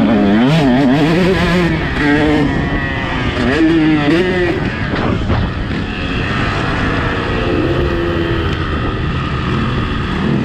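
Motocross bike engine revving hard and backing off again and again, its pitch swinging quickly up and down, then running at a steadier, lower pitch from about halfway through.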